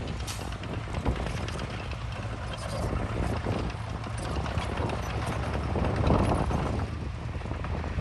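Bulldozer's diesel engine running with the clatter and clank of its steel crawler tracks, getting louder about six seconds in.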